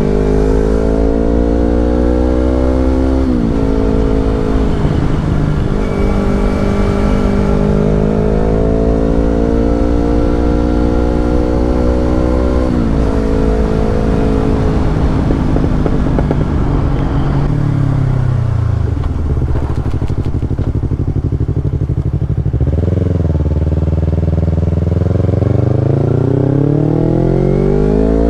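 Yamaha R25's 250 cc parallel-twin engine through an aftermarket Brave exhaust, accelerating with the revs climbing and dropping sharply at upshifts about three and thirteen seconds in. Past the middle the revs fall and it runs low for a few seconds, then climbs again near the end.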